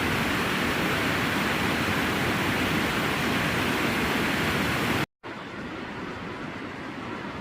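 Waterfall with a steady, loud rushing of falling water. About five seconds in it cuts off abruptly, followed by a quieter steady rushing noise.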